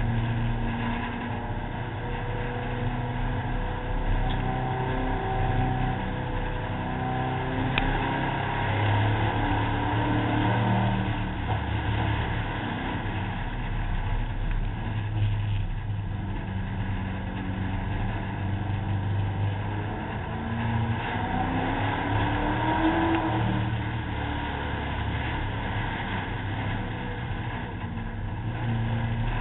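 Competition car's engine heard from on board as it is driven hard around a dirt course, its pitch rising and falling again and again as it accelerates, backs off and changes gear, over a continuous rush of noise.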